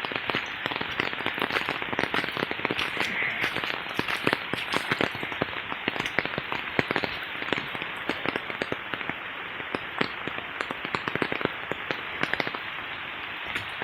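Steady rain: a constant hiss packed with many sharp ticks of drops striking close by.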